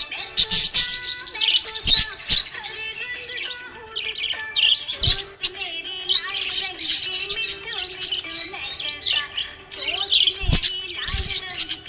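Small pet parrots chirping and warbling in a fast, continuous chatter, with a few low thumps in between.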